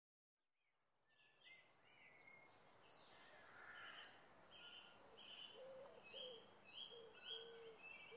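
Faint birdsong fading in after about a second of silence: several birds chirping over a soft outdoor background, with a short high call repeated roughly twice a second in the second half and a few lower notes beneath.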